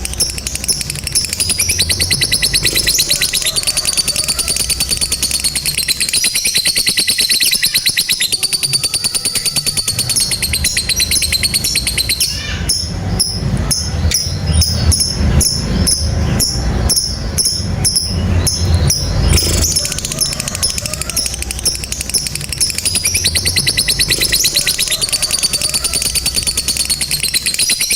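Lovebird ngekek: long, rapid, high-pitched chattering trills. About twelve seconds in, the trill gives way for some seven seconds to a slower, coarser pulsing with deeper thuds underneath, then the high trill resumes.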